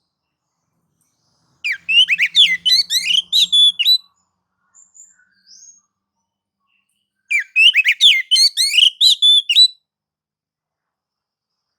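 Oriental magpie-robin (kacer) singing two bursts of rapid, varied whistled notes, each about two seconds long, with silence between them. This is the excited 'nagan' and 'ngobra' song, used as a lure to set other magpie-robins singing.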